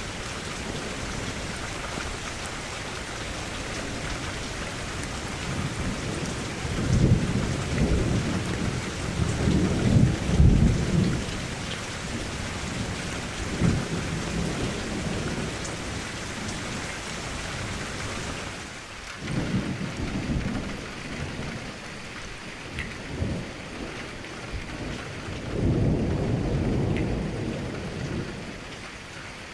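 Steady rain falling against a window, with low rumbles of thunder rolling in and fading several times; the loudest comes about a third of the way in.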